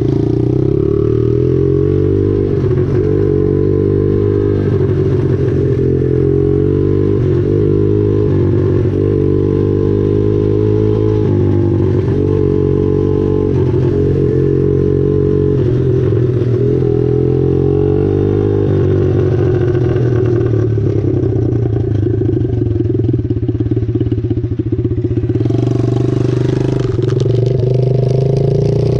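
Small mini-bike engine running steadily, heard close up while being ridden, its pitch wavering with the throttle. A hissing rush joins it near the end.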